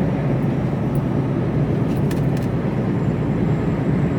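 Mercedes Actros lorry driving along, heard from inside the cab: a steady low drone of engine and road noise.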